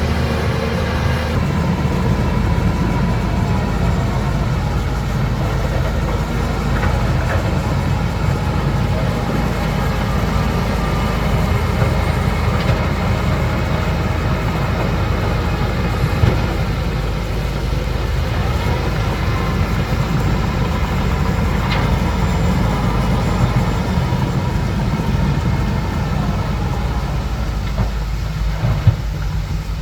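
Bulldozer's diesel engine running steadily as a low, loud drone, with faint metallic squeals now and then.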